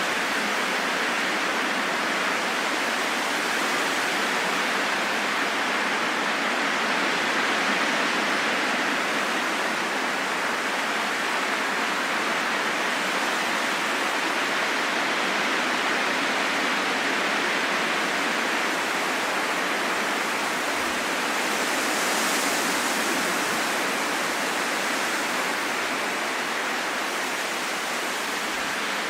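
Steady wind sound, an even hiss that swells and eases slowly, with a short brightening in its upper range about three-quarters of the way through.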